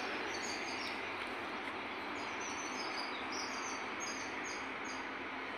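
Birds chirping, a string of short high calls through the second half, over a steady wash of outdoor background noise.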